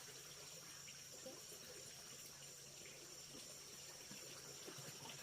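Near silence: faint background with a thin, steady high-pitched tone.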